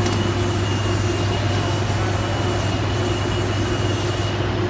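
Loud, steady hum and rushing roar inside a hydroelectric dam, from water in the large penstock pipe and the generating machinery. A few faint steady tones sit over it.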